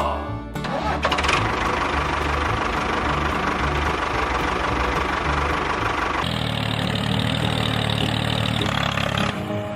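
An engine idling with a knocking beat. About six seconds in, a second, steadier engine sound takes over and fades out shortly before the end.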